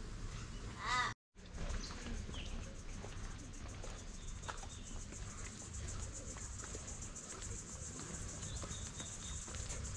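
A bird caws once about a second in, followed by a brief dropout. After it comes faint outdoor ambience: a steady high hiss and a few faint distant bird chirps near the end.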